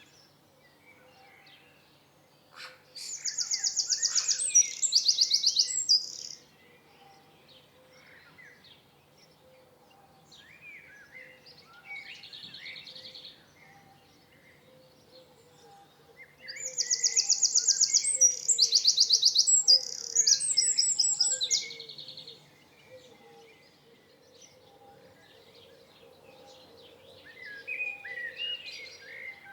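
Songbirds singing: two loud songs made of fast trills of repeated high notes, one starting about 3 seconds in and one about 16 seconds in, with softer chirps in between and near the end.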